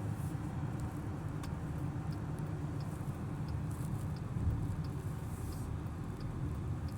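Car interior road noise while driving: a steady low rumble of engine and tyres, with faint regular ticks about every two-thirds of a second.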